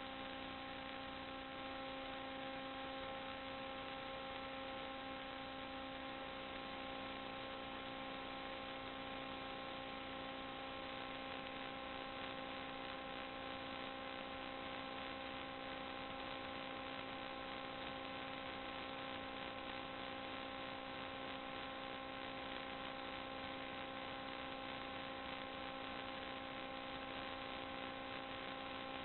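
Steady electrical hum with several held tones over a constant hiss, unchanging throughout.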